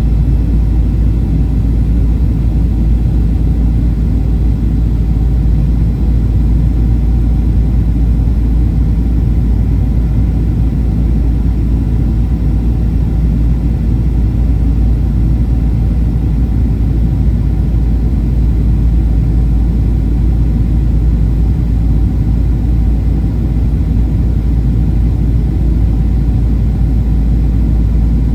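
Steady cabin rumble of a Boeing 737-800 airliner, its engines and airflow heard from inside the cabin, with faint steady engine tones above the low roar.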